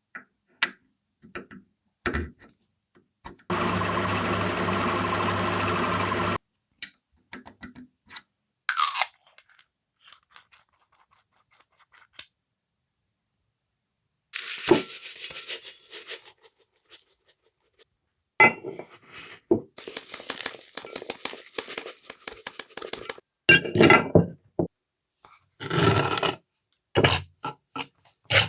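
Metal parts and tools clinking, knocking and scraping against each other, with a machine running steadily for about three seconds early on.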